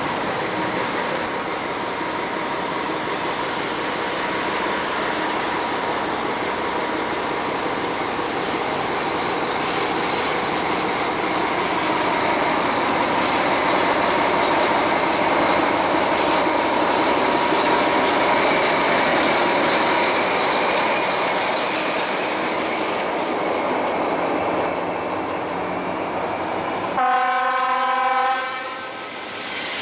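ČD class 754 'Nurek' diesel locomotive hauling a passenger train past, its engine and the rolling coaches making a steady rumble of wheels on rail. Near the end a train horn sounds once, loud, for about a second and a half.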